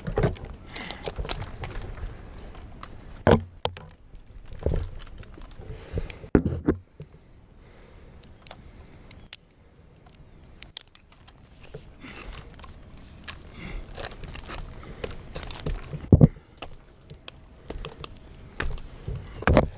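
Irregular knocks, clicks and light metallic clinks, with a few heavier thumps and rustling between them.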